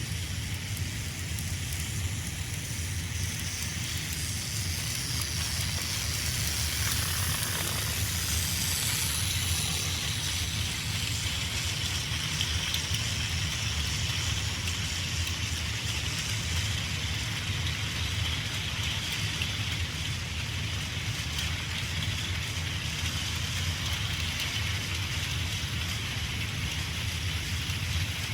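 Plarail battery-powered toy Thomas the Tank Engine pulling a long train of coaches on plastic track: a steady whir of the small motor with the running noise of many wheels on the track.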